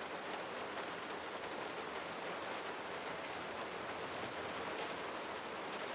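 Steady, gentle rain falling, a soft even hiss with faint scattered drop patter.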